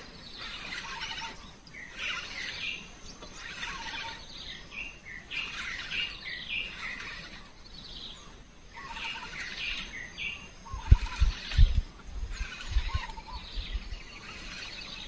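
Birds singing outdoors: repeated short, high chirping phrases. A few low thumps come about three-quarters of the way through and are the loudest sounds.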